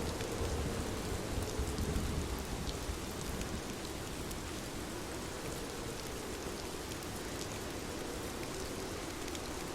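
Steady rain falling and pattering on surfaces, with scattered individual drops. A low rumble swells and fades within the first few seconds.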